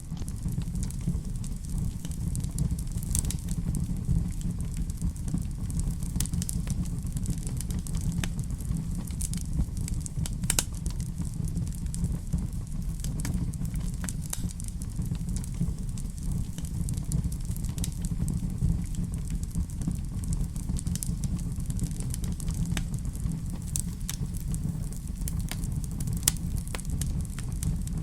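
Fire burning in a fireplace: scattered irregular crackles and pops over a steady low rumble.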